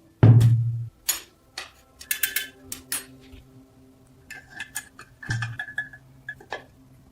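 A heavy thump just after the start, then a string of sharp clinks and taps of small metal parts being handled on a work surface, some leaving a short metallic ring.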